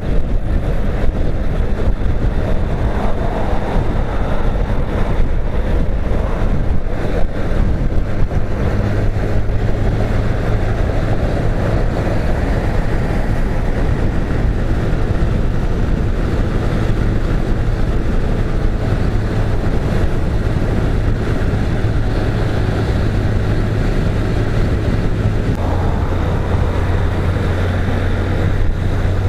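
Motorcycle cruising on a highway: a steady engine drone under a continuous wind rush on the microphone. The engine note changes about nine seconds in and again near the end.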